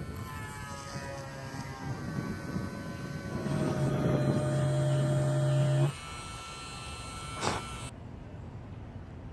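A small electric motor buzzing steadily and loudly, then cutting off suddenly about six seconds in. Before it, tones fall slowly in pitch, and a single sharp click comes near the end.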